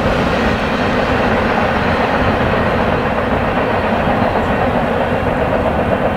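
Freight train rolling past on the track, a steady loud rumble of wheels on rails.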